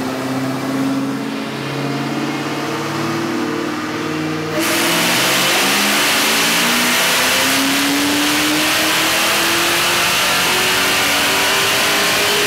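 2003 Ford SVT Cobra's supercharged 4.6-litre V8 on a chassis dyno, running at part throttle with a few steps in pitch, then about four and a half seconds in going suddenly to full throttle and getting much louder, its pitch rising steadily through a long wide-open-throttle dyno pull.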